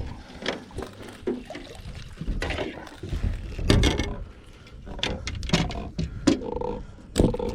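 Irregular splashes, drips and knocks of water and handling around a freshly landed blue catfish in a boat.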